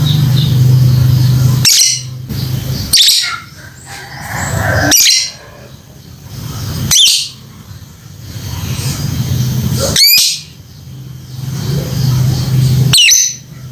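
Lovebird giving loud, sharp, high-pitched contact calls, six in all, spaced two to three seconds apart, as it calls out to a companion bird. A steady low hum runs underneath.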